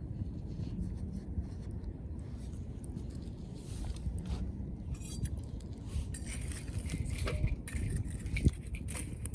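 Wood fire burning with a steady low rumble and scattered crackles; from about five seconds in, light metallic clinks and scrapes of metal camp cookware being handled.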